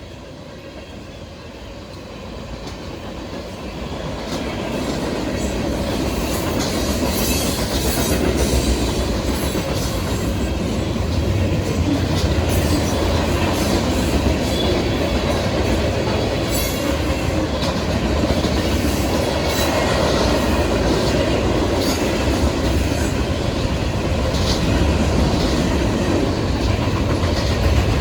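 Manifest freight train rolling past, growing louder over the first several seconds as it comes close, then a steady rumble of passing cars with steel wheels clicking over rail joints and occasional brief squeals.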